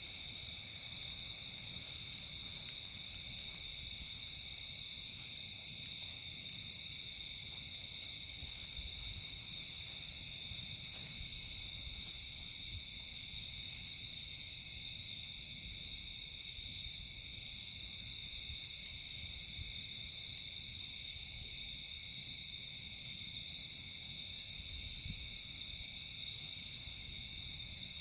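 Steady night chorus of crickets, with a higher insect trill pulsing in every few seconds over it. Two sharp pops from the campfire stand out, one about halfway through and one near the end.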